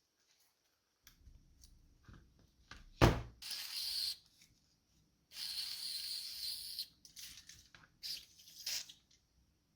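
Work sounds at a bench during a carburetor restoration: a sharp knock about three seconds in, then two hissing bursts, the second longer, among scattered small clicks.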